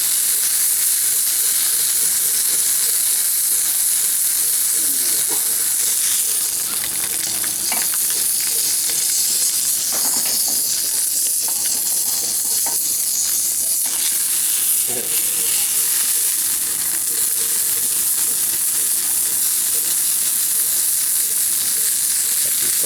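Chicken ballotine sizzling in shallow hot oil in a frying pan, its skin browning and crisping, a steady high hiss with a few brief clicks as it is moved around the pan.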